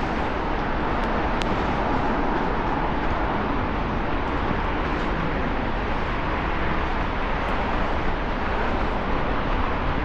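Steady hiss of a rainy city street: rain and traffic on wet roads, with a few faint brief clicks.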